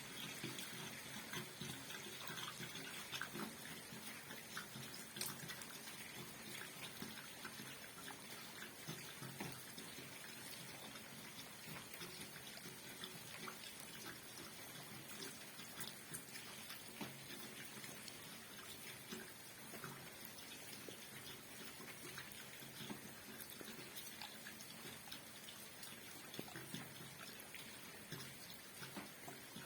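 Rain falling steadily: a faint, even hiss scattered with many small ticks of drops.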